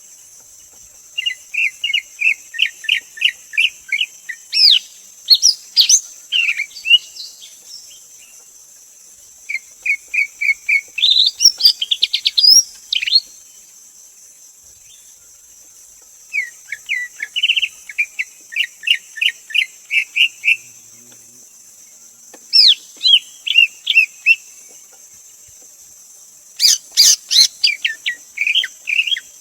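Greater green leafbird singing: four bursts of quick, repeated whistled notes with sharp up-and-down sweeps, separated by pauses of a few seconds.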